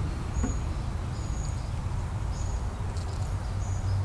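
Honeybees buzzing around an opened top bar hive, a steady low hum. Short high chirps sound about once a second over it.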